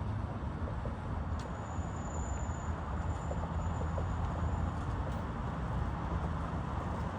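Steady low rumble of urban traffic and engines, with a low hum running throughout. A faint thin high tone sounds for about three seconds in the middle.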